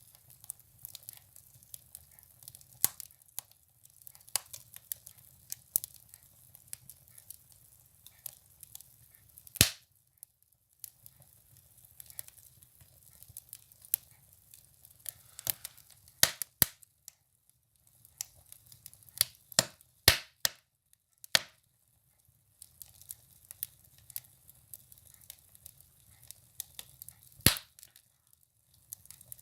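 Firewood burning in a stove, crackling with irregular small pops and several louder sharp cracks.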